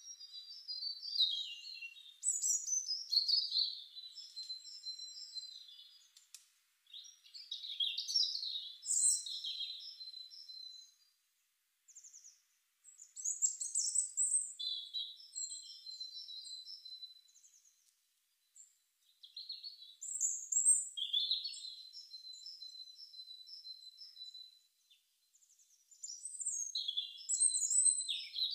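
A songbird singing in repeated phrases of chirps and trills, each a few seconds long with a held whistled note, about five songs separated by short pauses.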